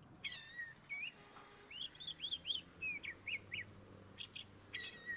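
Small birds chirping: a string of short, high, faint chirps and quick sweeping notes.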